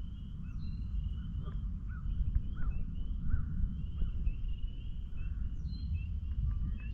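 Chorus of spring peepers: many short rising peeps overlapping without a break, over a steady low rumble.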